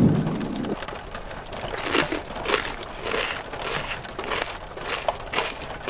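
A loud low rumble fades out in the first second, then a run of irregular crinkling and crunching rustles begins about two seconds in, the sound of the served order being eaten.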